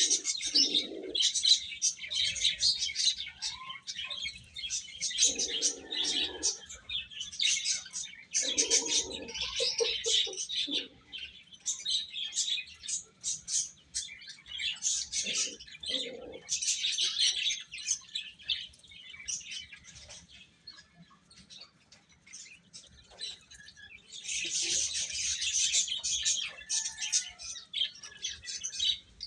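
A group of baby chicks peeping: many overlapping high chirps, with a few short lower-pitched calls mixed in. The peeping thins out about two-thirds of the way through, then comes back thick near the end.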